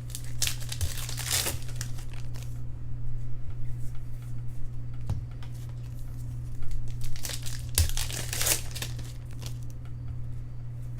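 Trading card pack wrapper being torn open and crinkled, in two bursts: about half a second in and again from about six and a half seconds in, over a steady low hum.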